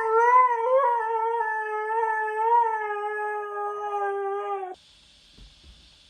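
A dog howling: one long, held howl, nearly level in pitch with a slight waver, that cuts off suddenly about three-quarters of the way through, leaving a faint hiss.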